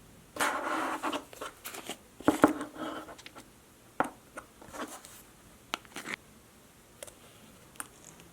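Hands handling slime and its plastic tubs: squishing and crackling bursts early on and again a little past two seconds in, then a string of separate sharp clicks.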